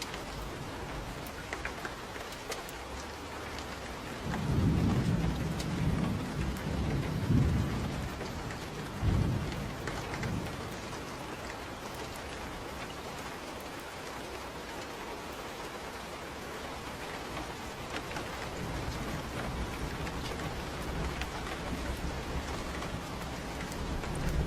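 Steady rain falling, with low rolls of thunder rumbling from about four to ten seconds in and building again near the end. Scattered sharp ticks sit over the rain.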